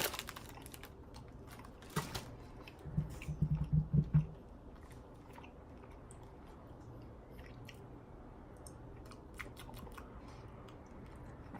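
Close-up chewing of a chocolate candy bar with a soft, marzipan-like filling: scattered wet mouth clicks and small crunches, with a louder run of chewing about three to four seconds in.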